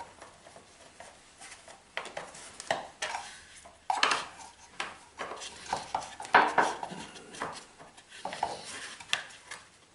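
Screws being taken out of an old air compressor by hand: irregular metal clinks, knocks and short scrapes of a hand tool and loose parts on the compressor's metal body.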